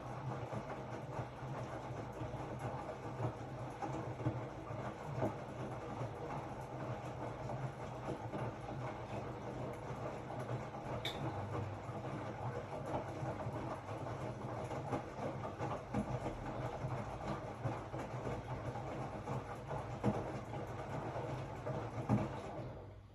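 Hotpoint-Ariston RSG 825 J washing machine running: a steady hum from the motor and drum with a rattle of small knocks. The sound drops away suddenly near the end.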